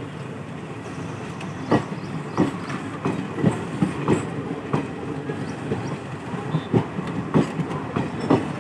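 ICF DEMU (diesel-electric multiple unit) local train rolling out, its wheels clicking over the rail joints about once or twice a second, often in pairs, over a steady running rumble.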